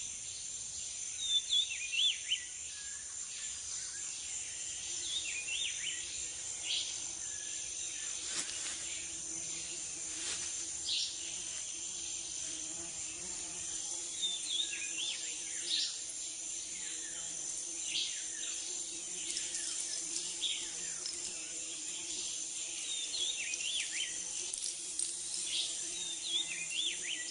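Rainforest insects trilling steadily and high-pitched, with short bird chirps scattered throughout. A faint low steady drone sits underneath from about a third of the way in.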